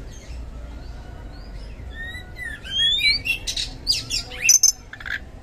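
Oriental magpie-robin (kacer) singing a loud, varied phrase of rising and falling whistles and sharp chirps. The song starts about two seconds in, and its loudest notes come near the end.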